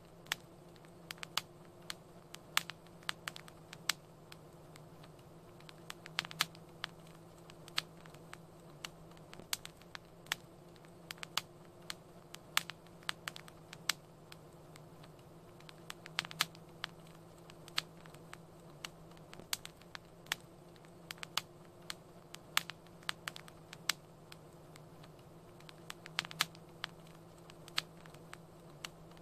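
Wood fire crackling: irregular sharp pops and snaps, several a second, some louder than others, over a faint steady low hum.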